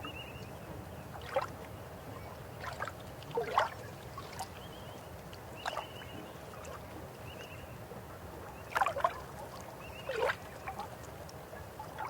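River water flowing steadily, with irregular splashes and gurgles rising out of it, about eight in all, the loudest about three and a half and nine seconds in.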